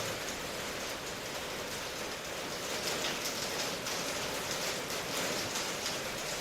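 Steady rainfall, an even hiss with a fine patter of drops landing on a surface.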